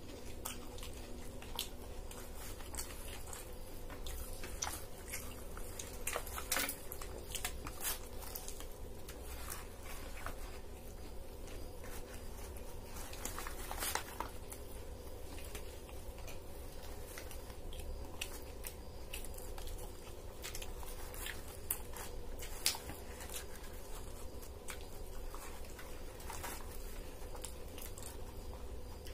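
Two people eating egg rolls: chewing and biting with scattered short clicks and rustles of the paper wrapper, over a steady low hum.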